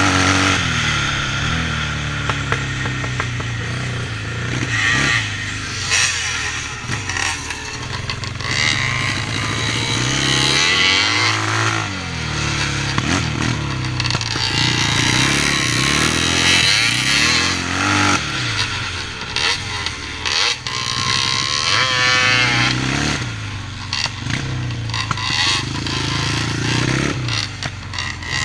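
Yamaha 650 vintage motocross bike being ridden hard, its engine repeatedly revving up and dropping back every couple of seconds as the rider works the throttle and gears.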